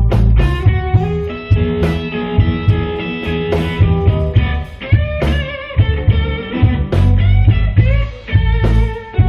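Blues band playing an instrumental break: electric guitar lead with bent, wavering notes over bass and drums.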